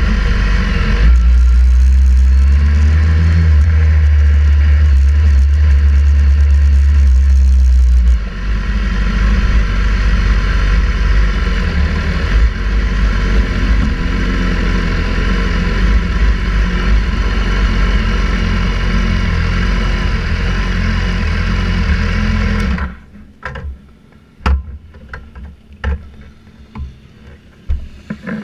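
Sportbike engine running, heard onboard with heavy wind rumble for the first eight seconds, then easing to a steadier, quieter run. Near the end the engine sound stops abruptly, leaving scattered clicks and knocks.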